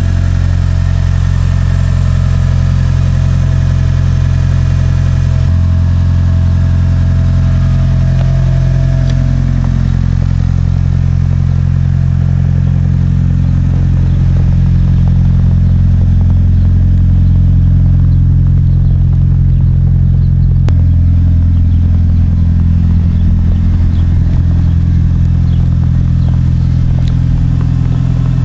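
Mitsubishi Lancer Evolution VI Tommi Mäkinen Edition's turbocharged 2.0-litre four-cylinder engine idling steadily.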